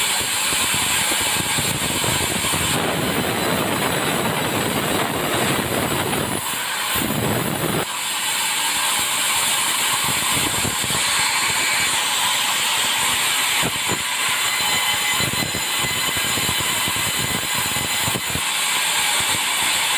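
Sawmill saw cutting through a tropical hardwood log, a steady loud hiss of blade through timber. A deeper, heavier sound joins in for about a second around seven seconds in.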